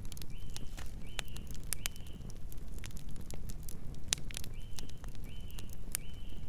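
Fire crackling with many sharp pops over a steady low rumble of flames. A bird calls two series of three short whistled notes, one at the start and another about four and a half seconds in.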